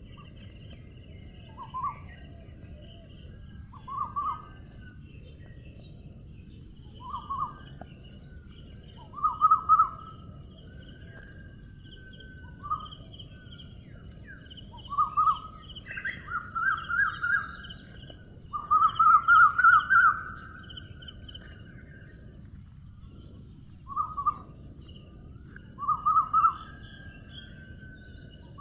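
A bird calling again and again in short, fast-pulsed phrases, some drawn out into longer trills, over a steady high chorus of insects and a low continuous rushing background.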